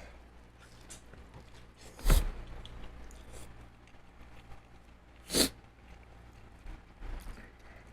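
A person eating seafood close to the microphone: soft chewing with faint clicks, broken by two short, sharp, louder noises about two and five seconds in.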